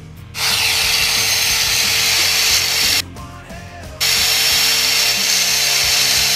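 Stick-welding arc powered by three 12-volt car batteries in series, a loud, steady crackling hiss as the welding rod burns against a steel nut. It cuts out for about a second near the middle, then is struck again.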